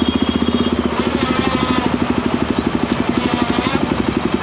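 Motorcycle single-cylinder engine running at low, steady revs, a rapid even exhaust beat of about fifteen pulses a second. A few short high beeps sound near the end.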